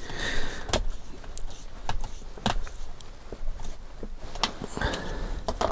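Scattered light clicks and taps of small plastic and metal kit parts and tools being handled during RC car assembly, at irregular intervals.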